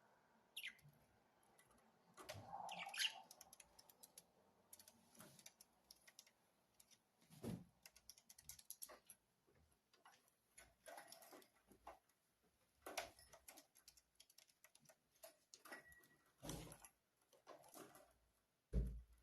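Budgerigars chirping faintly in short, scattered calls, mixed with many light clicks and taps.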